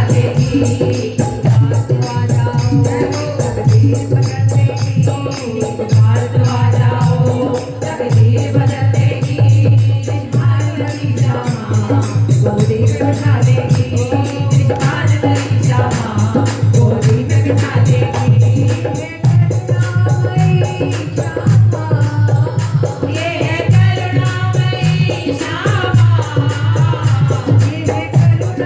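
Hindi devotional bhajan to Radha: a singing voice over a steady pulsing beat with jingling, shaker-like percussion.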